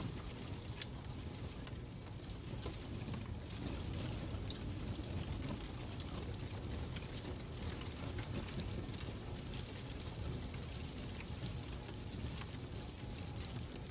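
Fireplace fire crackling: a steady low rush with irregular small crackles and pops scattered throughout.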